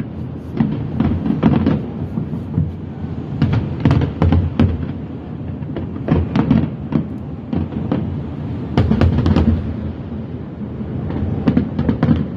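Fireworks going off: many sharp bangs at irregular intervals, often several in quick succession, over a steady low background noise.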